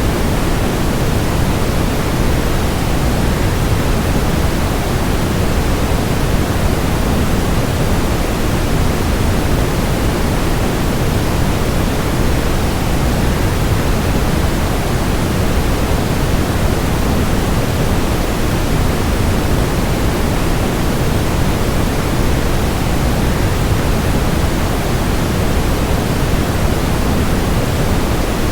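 Steady rushing of a waterfall blended with white noise: an even, unchanging hiss weighted toward the low end.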